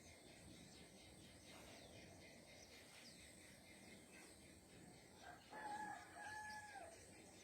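A rooster crowing faintly, heard from about five seconds in as one crow of under two seconds, broken in the middle. Faint high bird chirps run underneath.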